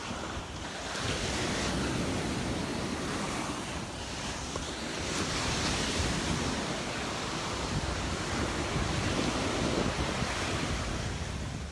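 Gulf surf breaking and washing up the beach, its hiss swelling about a second in and again near the middle, with wind rumbling on the microphone.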